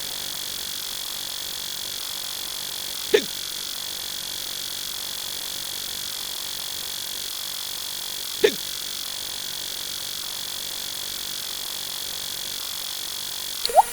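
Adult male hiccup sound effect, twice, about five seconds apart, over a steady hiss with a constant high whine.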